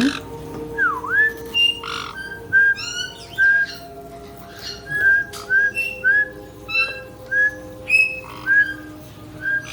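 Caique parrots giving a run of short, clear whistles, many of them rising, repeated every half second or so, with a few harsher calls mixed in.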